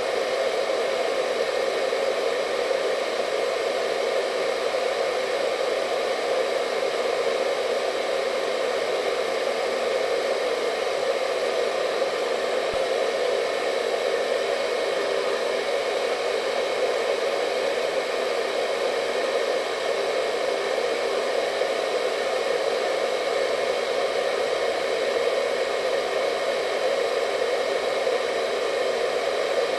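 Hair dryer running continuously at a steady speed: an even rushing airflow with a faint motor whine.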